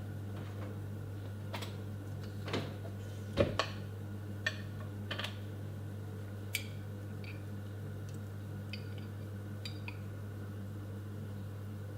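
Dishes and kitchen utensils clinking and knocking in a string of separate clatters, the loudest about three and a half seconds in and fainter ticks near the end, over a steady low hum.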